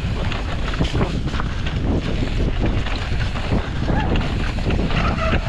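Wind buffeting the microphone of a mountain bike rider's camera at speed down a dirt trail, with tyre noise and frequent knocks and rattles from the bike over bumps.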